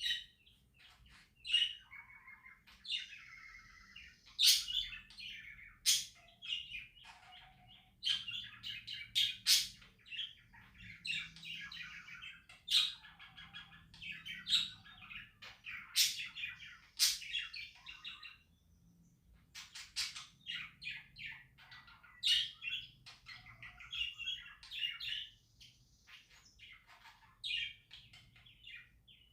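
Pet budgerigars chirping and chattering in quick, irregular bursts, broken by a few sharp high clicks.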